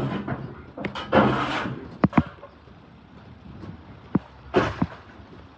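Debris being cleared out from behind a garbage truck's packer blade: a few short scrapes and several sharp metal knocks, with quieter stretches between.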